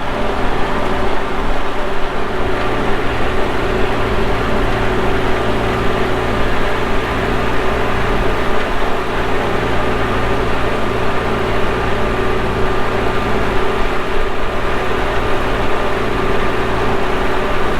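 Antique tractor engine running steadily under way, with a constant mechanical hum and noise.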